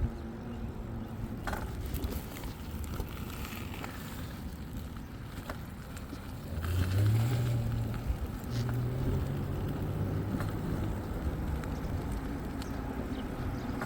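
Steady low road and wind rumble of a ride, with a vehicle engine's hum coming in about six and a half seconds in, rising briefly and then holding.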